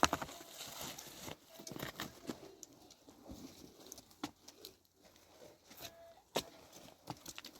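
Scattered knocks and clicks at an irregular pace, with a few short, level calls now and then.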